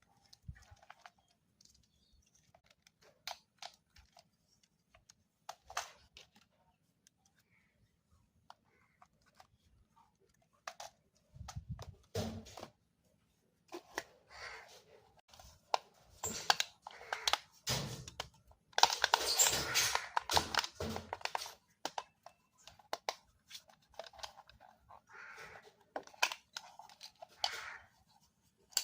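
Packaging being handled: irregular rustling and tearing with scattered clicks and knocks, the longest, loudest tearing stretch about two-thirds of the way through.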